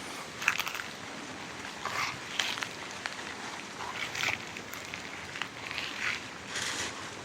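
Footsteps crunching on dry leaves, an uneven series of short rustling crunches over a faint steady background of wind.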